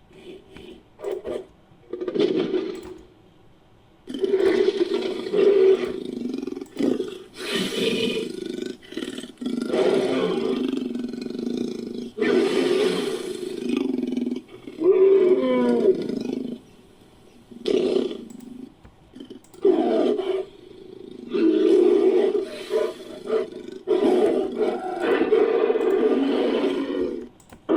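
Designed monster creature sound effects: a string of deep roars and growls layered from lion, tiger, ape and monster roar recordings, some calls short and some several seconds long, with brief pauses between.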